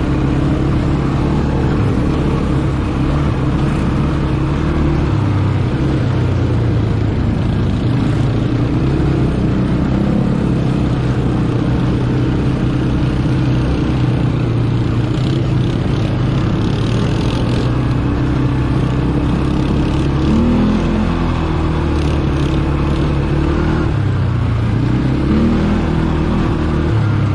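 ATV engine running while riding along a trail, its pitch rising and falling with the throttle, with a few short clattering noises past the middle.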